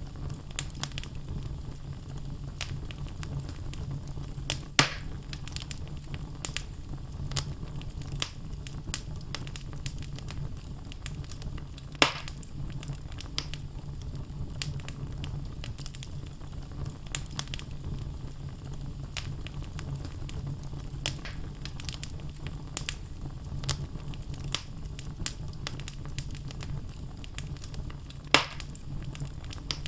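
Wood logs burning in a fireplace, crackling with many small snaps over a steady low rumble of the flames. Three louder pops stand out: about five seconds in, about twelve seconds in, and near the end.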